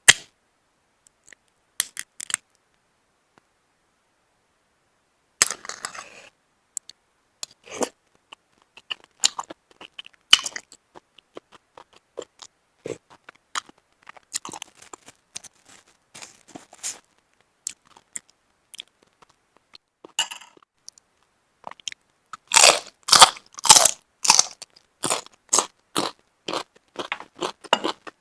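Close-miked eating of steamed mountain snails: scattered sharp clicks and bouts of chewing, with a dense, louder run of crunching clicks about twenty-three seconds in.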